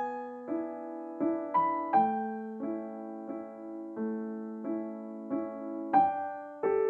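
Background music: slow, gentle solo piano, single notes and soft chords, each struck and left to ring.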